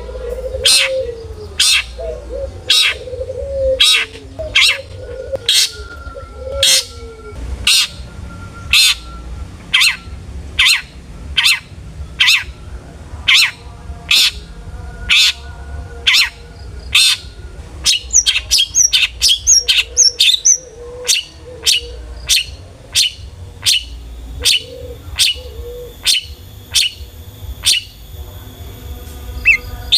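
Long-tailed shrike (cendet) singing a string of sharp, harsh notes repeated more than once a second, breaking into quicker varied twittering about two-thirds of the way through. Low cooing notes sound under it for the first several seconds and again later.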